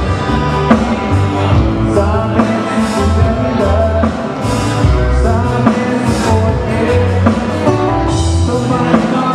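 Live Hawaiian band playing a song, with a bass line and a steady drum beat.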